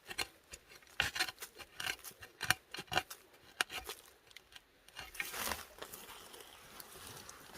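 Digging potatoes out of the soil by hand tool: a string of short scrapes and knocks against the earth, then a longer rustling scrape about five seconds in.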